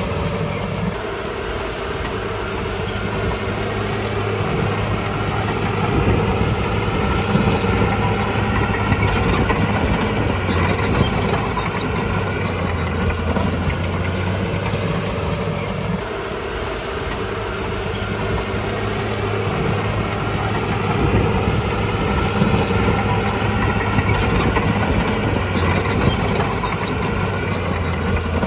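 Bulldozer diesel engine running under varying load, rising and easing off every few seconds, with a few faint metallic clicks.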